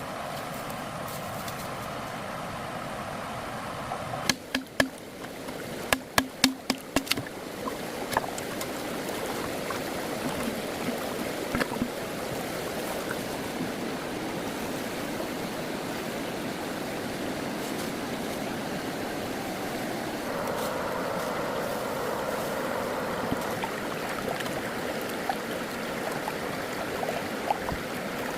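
Water running steadily, like a small stream or trickle. About four to eight seconds in comes a quick series of roughly eight sharp knocks, each with a slight ring.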